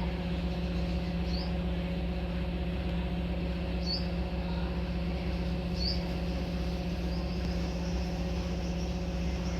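A bird giving short, high chirps a couple of seconds apart, over a steady low hum.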